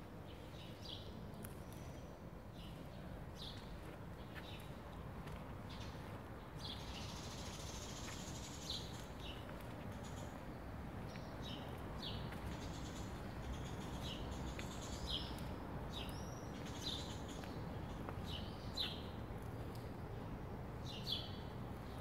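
Small birds chirping, with short high calls scattered throughout over steady low background noise.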